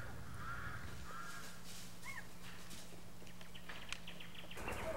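Faint bird calls: a few short arched calls in the first second and one more about two seconds in, then a quick run of ticks near the end, over a low steady hum.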